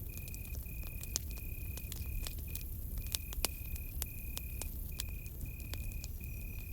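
Campfire crackling, with sharp irregular pops and a low rumble, over a cricket's high trill that comes in repeated pulses of about half a second with short breaks.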